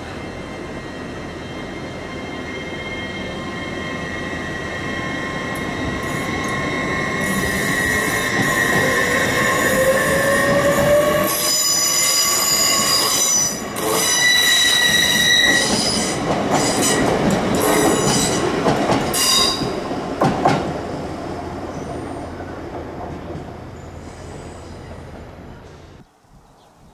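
A train passing with its wheels squealing in several high, sustained tones. The sound builds steadily over the first ten seconds, squeals loudest through the middle, then fades away and cuts off shortly before the end.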